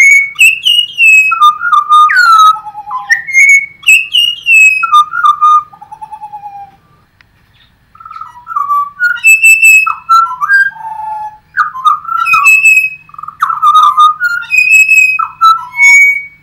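A bird singing loud, clear whistled phrases of sliding notes, with a short pause about seven seconds in before the song resumes.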